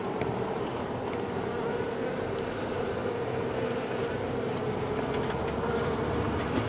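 Honey bees from a disturbed wall colony buzzing in a steady, continuous hum, with a few faint clicks.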